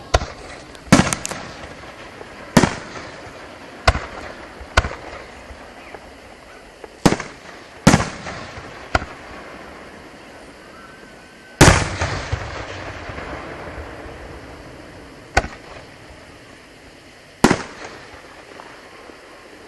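Aerial firework shells bursting overhead: about a dozen sharp bangs at uneven intervals. The loudest comes just past the middle and is followed by a long rolling echo.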